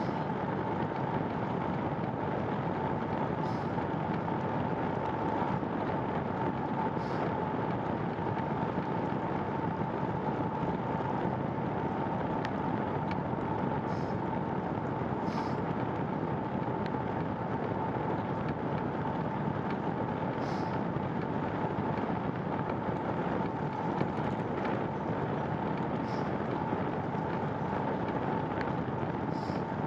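Steady rushing noise of a bicycle ride on a wet trail: wind and tyre noise, with a faint steady whine and a few light ticks.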